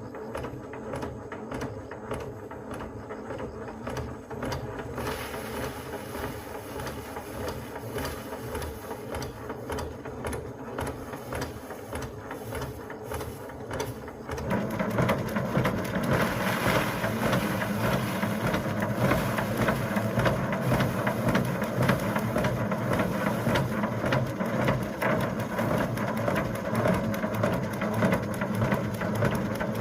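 A motor-driven machine running steadily; about halfway through, a louder, denser rushing noise joins it and carries on.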